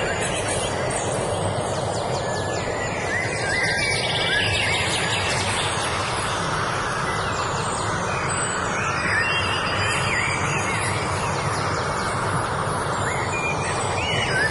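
Several wild birds chirping and whistling in short, rising and falling notes over a steady rushing background noise.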